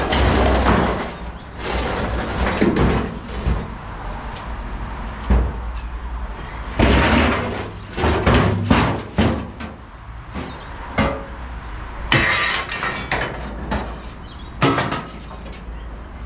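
Scrap metal clanging and crashing as pieces are thrown into a steel dump-truck tipper, irregular impacts a second or so apart, over an engine running steadily underneath.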